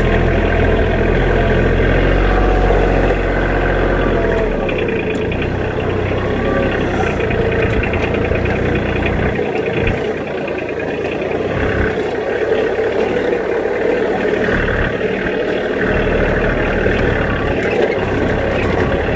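Kioti DK35 SE compact diesel tractor engine running while working, with a heavy low drone for the first few seconds that then eases off, and scattered clatter over it.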